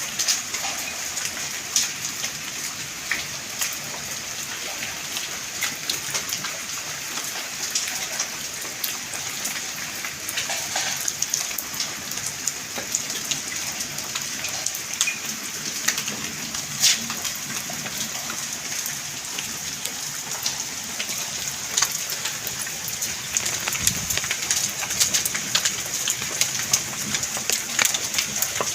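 Heavy rain falling steadily, with many sharp impacts scattered through it that come thicker near the end.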